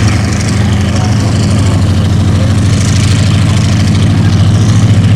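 P-40 Warhawk's Allison V12 engine running at low power with a steady low drone and a regular throb as the fighter rolls out and taxis.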